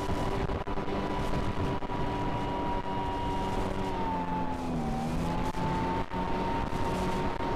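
Aircraft motor and propeller running steadily with a high whining tone over heavy rushing noise; the pitch sags briefly about five seconds in, then comes back up.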